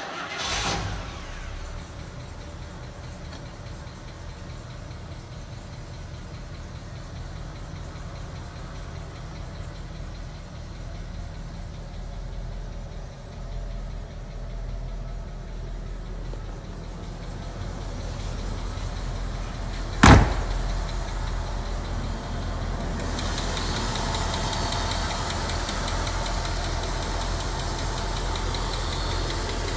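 1975 Rolls-Royce Silver Shadow's 6.75-litre V8 catching on a cold start and settling into a steady idle. A single loud thump comes about twenty seconds in. In the last several seconds the engine is heard close up from the open engine bay, a little louder and with more high hiss.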